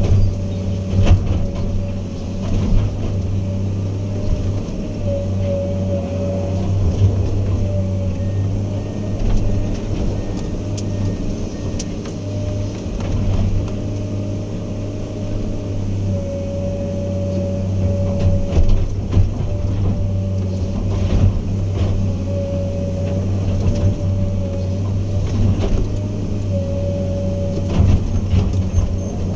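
Heavy earthmoving machine's diesel engine running steadily, with a higher whine that comes and goes several times and scattered knocks and clanks.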